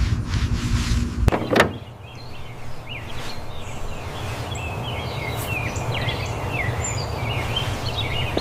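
A low rumbling noise cuts off about a second in with a brief falling whoosh. Then many short, high birds' chirps come in over a steady outdoor background hiss.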